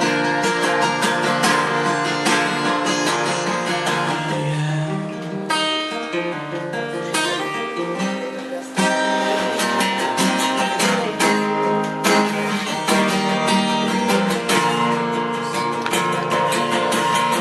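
Strummed acoustic guitar playing an instrumental break between the sung lines of a song.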